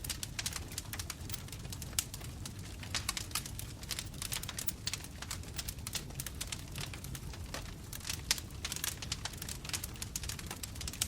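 Wood fire burning with a steady low rumble of flames and dense, irregular crackles and pops, several a second.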